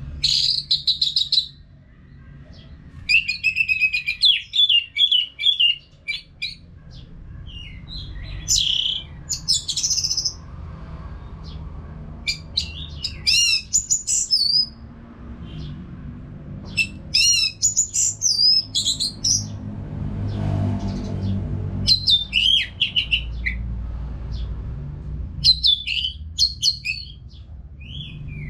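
Orange-headed thrush singing continuously: quick runs of varied whistled and chattering phrases separated by short pauses. Beneath the song is a low background rumble that grows louder around the middle.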